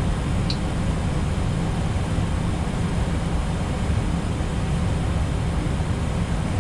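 Steady flight-deck noise of an Airbus A320neo in descent: airflow and engine noise, strongest in the low range, with one very short high chirp about half a second in.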